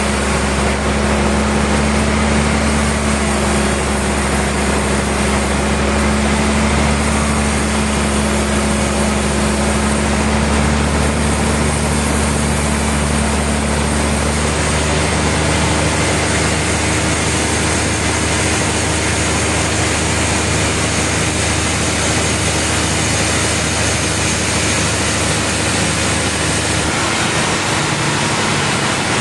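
Sawmill machinery running steadily: a low motor hum with a few steady tones under a dense mechanical din. One of the tones drops out about halfway through.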